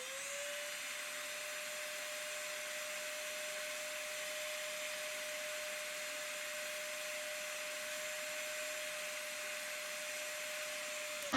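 Hot-air soldering gun blowing steadily, heating a burnt-out LED on an LED bulb's circuit board to desolder it. The whine of its fan rises in pitch at the start, then holds steady until it cuts off suddenly.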